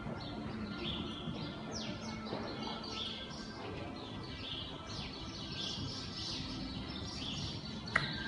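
Small birds chirping over and over in short, high calls, with one quick falling call about two seconds in. A single sharp click comes near the end.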